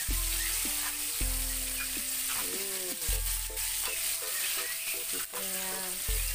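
Battered chicken pieces deep-frying in hot oil in a wok, a steady sizzle, with a spatula stirring them. The chicken is nearly cooked and browning.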